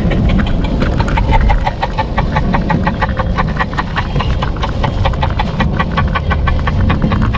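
Car cabin with low road and engine rumble, over which the hazard-light indicator ticks rapidly and regularly, several clicks a second.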